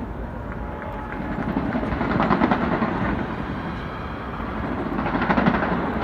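Fireworks going off: a continuous rumble of bursts with rapid crackling that swells about two seconds in and again near the end.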